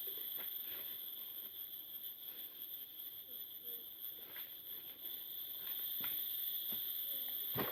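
A steady, high-pitched chorus of forest insects, held on two continuous pitches. Scattered small clicks and knocks sound over it, with a sharper knock near the end.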